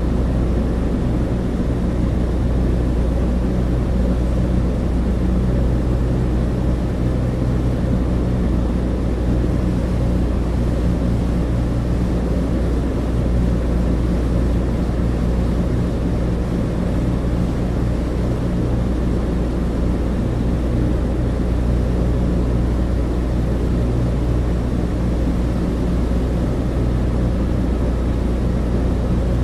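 Douglas DC-3 heard from inside the cabin: the steady drone of its twin radial piston engines and propellers, a deep even hum under a constant rush of noise.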